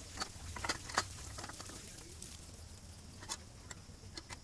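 Scattered light taps and clicks from handling the electric water heater's brass drum during cleaning.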